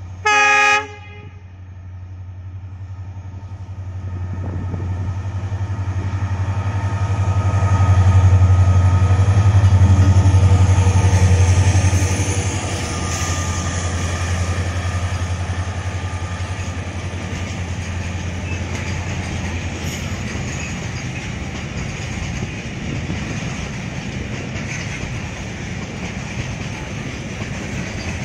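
Diesel locomotive hauling a container freight train sounds one short horn blast, then its engine drone builds as it approaches and passes, loudest about eight to twelve seconds in. After that the container wagons roll by with a steady rumble and wheel noise.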